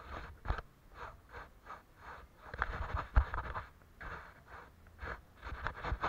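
Watercolour paintbrush working on paper: an irregular run of short swishing and scraping strokes, with a few sharper taps.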